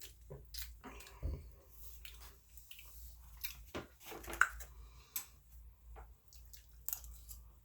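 Close-up eating sounds: wet chewing and mouth smacks with scattered small clicks, one sharper click a little past halfway.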